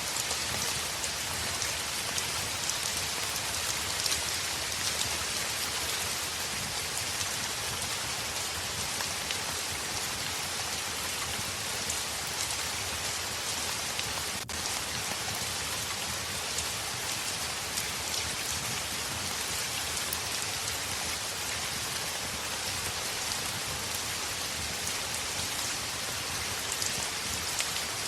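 Heavy rain falling steadily on a window: an even hiss with fine scattered drop ticks.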